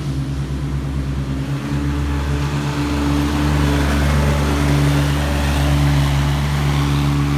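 Large engine of the tree crew's machinery running steadily, picking up speed about two seconds in and holding there at a louder, steady drone.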